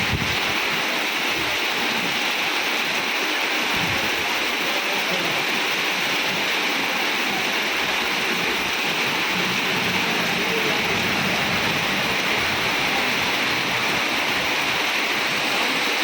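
Heavy rain falling steadily, a dense, unbroken hiss of water.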